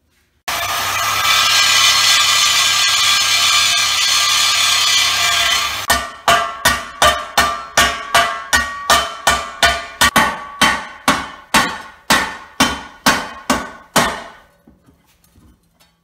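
A loud, steady grating metal noise with ringing tones for about five seconds, then a regular run of hammer blows on ringing metal, about two a second, that trail off near the end.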